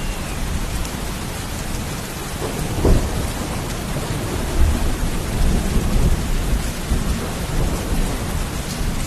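Steady heavy rain with thunder: a sharp crack about three seconds in, followed by low rolling rumbles.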